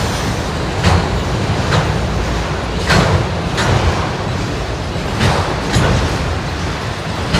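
Freight train of auto rack cars rolling past, its wheels clicking over rail joints in paired clicks under a steady rumble.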